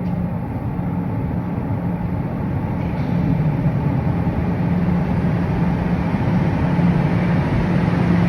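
Toronto subway train pulling into the station: a steady rumble growing louder, with a low hum that comes and goes.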